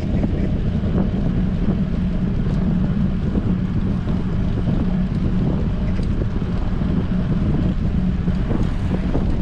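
Strong wind buffeting a GoPro action camera's microphone on a moving bicycle: a steady low rumble with a hum underneath.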